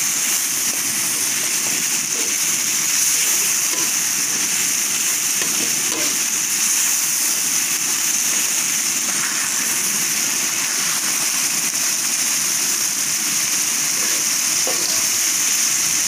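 Coarsely ground chili, shallot and garlic spice paste sizzling steadily in hot oil in a wok as it is stir-fried with a metal spatula: the paste being fried until fragrant, dry with no water added.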